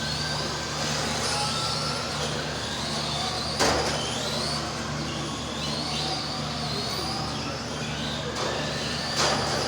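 Electric motors of several RC Euro race trucks whining, their pitch gliding up and down as they speed up and slow down around the track. A sharp knock about three and a half seconds in, and another near the end.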